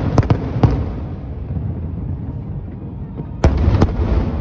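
Aerial fireworks bursting: a few sharp bangs in the first second, then a louder pair of bangs about three and a half seconds in, over a continuous low rumble of more distant shells.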